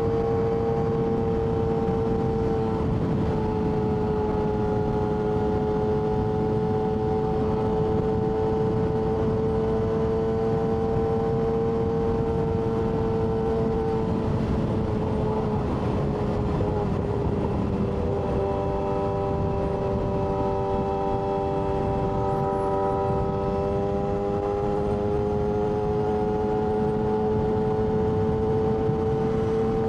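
Yamaha R6's inline-four engine running at a steady cruise while the bike is ridden. Its pitch eases down a little about halfway through, then climbs slowly toward the end.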